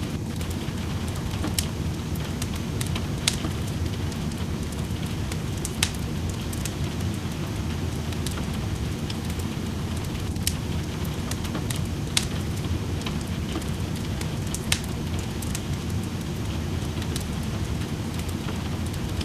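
Steady rain with a wood fire in a fireplace, crackling and popping with sharp snaps every second or so.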